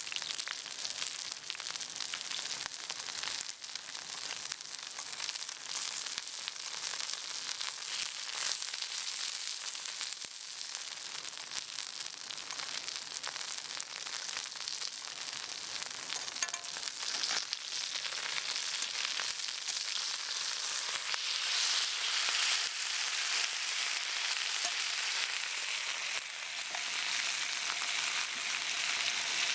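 Chicken sizzling as it cooks over the fire: a steady, dense crackling hiss that grows louder about two-thirds of the way through.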